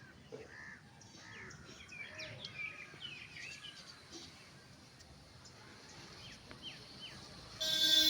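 Small birds chirping repeatedly with short rising and falling calls. Near the end a vehicle horn sounds, steady for about a second and the loudest sound here.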